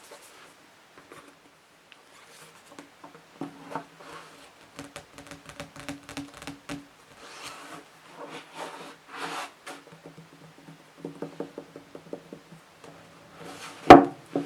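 Scratching and tapping on books: short rubbing strokes and light taps, then one sharp, much louder knock near the end.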